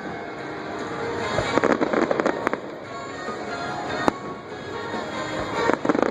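Fireworks bursting: single sharp bangs about one and a half, two and a half and four seconds in, and clusters of rapid crackling around two seconds in and again near the end. Show music plays underneath.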